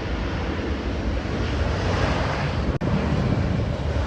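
Jet airliner's engines as the aircraft passes, a steady rushing noise that swells a little toward the middle; the sound cuts out for an instant about three seconds in.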